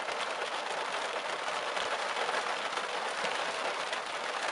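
Steady rain falling hard, a dense, even patter from a thunderstorm that has just dropped pea-size hail.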